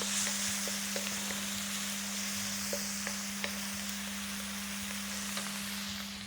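Chopped onion and garlic sizzling as they fry in hot oil in a pan, with the light clicks of a utensil stirring and tossing them every so often. The sizzle drops away just before the end.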